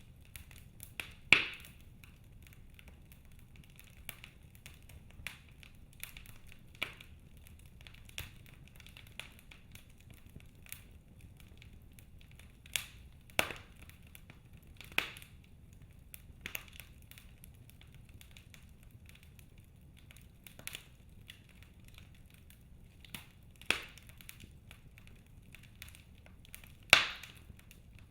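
Wood fire in a fireplace crackling: irregular sharp pops and snaps of burning logs over a low steady rumble, with the loudest pops about a second in and near the end.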